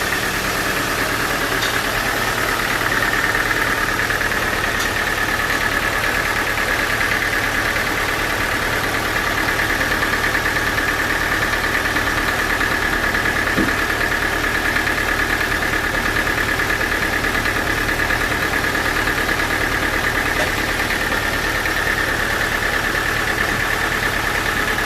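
Sawmill machinery running steadily: a constant mechanical drone with a steady high-pitched whine.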